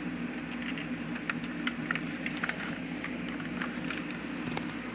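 Light scattered clicks and taps from a model car being handled and turned over, over a steady low mechanical hum in the room.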